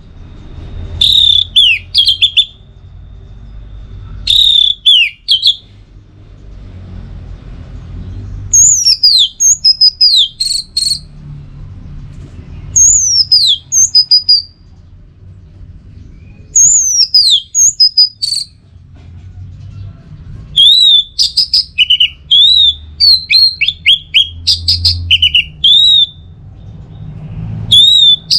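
Orange-headed thrush song: bursts of rapid, varied whistled phrases with short pauses between them, running almost without a break in the last several seconds, over a faint low rumble.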